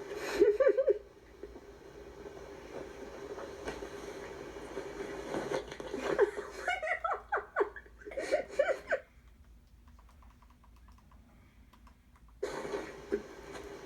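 A person laughing in short bouts, once about a second in and again from about six to nine seconds in, over a steady hum.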